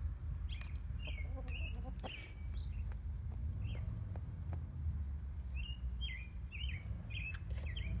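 Short, high bird chirps with falling pitch: a few in the first couple of seconds, then a quick run of about five near the end, with a few faint taps over a steady low rumble.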